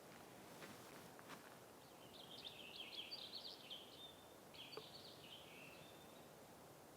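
A songbird singing faintly in two quick phrases of rapid high notes, the first about two seconds in and the second about four and a half seconds in, over a quiet outdoor background.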